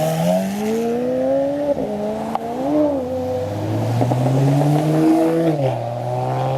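Car engine accelerating hard: the pitch climbs, falls back about two seconds in and again around three seconds, holds high, then drops near the end.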